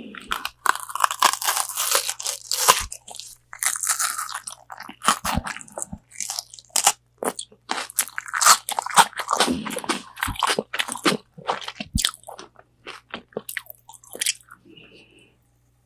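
Close-miked, crisp crunching and chewing as bites crack through the coating of Korean fried chicken wings, the crunches coming thick and fast, then thinning out near the end.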